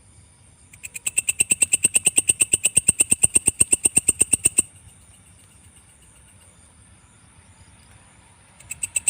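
Kecek katydid (belalang kecek) singing: a loud, rapid train of even clicking pulses, about ten a second, that swells in within the first second, stops abruptly about halfway through and starts again near the end, over a faint steady high insect whine.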